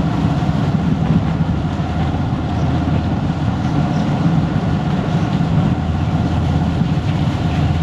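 Motorcycle engine running at a steady speed while being ridden, heard from the rider's seat, with a constant rush of road and air noise.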